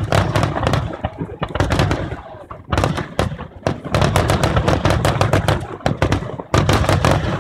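Aerial fireworks going off in quick succession: a dense run of overlapping bangs and crackles over a constant low rumble.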